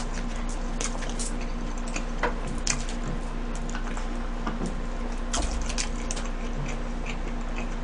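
Close-miked eating: chewing a burger, with small wet mouth clicks and smacks and a sip through a straw partway through.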